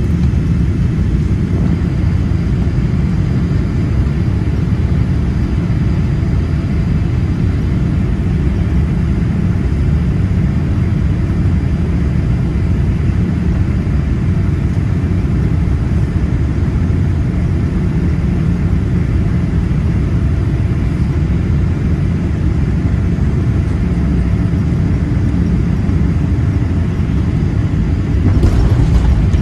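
Cabin noise inside a Boeing 787-8 airliner on approach: the steady low rumble of the engines and rushing air, swelling slightly louder in the last second.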